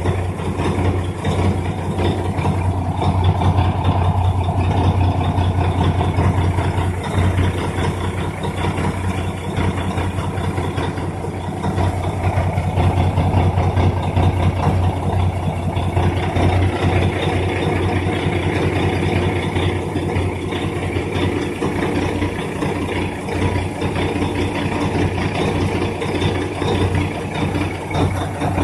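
Chinese 5 kW diesel air heater running steadily, with a constant low hum.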